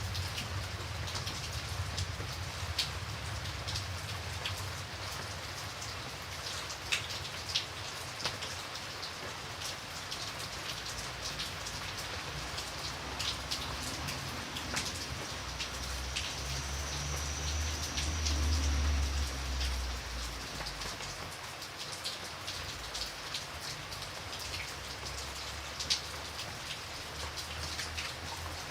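Steady rain with individual drops tapping sharply on a surface. A low rumble swells for a few seconds in the middle.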